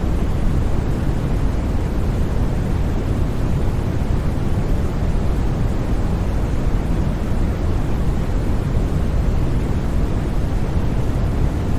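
Steady, unchanging white noise for sleep, weighted toward the low end so it sounds like a deep, even rushing hiss, with no sudden sounds.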